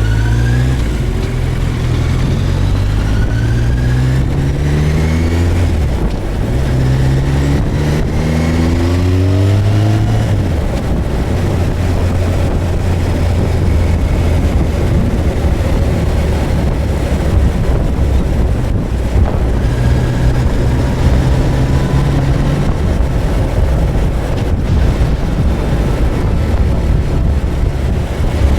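Suzuki GSX1250FA's inline-four engine pulling hard through several gears, its pitch climbing and dropping back at each upshift over the first ten seconds or so, then holding a steady cruise.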